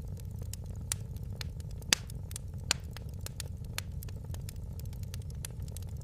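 Fire in a fireplace crackling: frequent sharp pops and snaps over a steady low rumble, with the loudest pop about two seconds in.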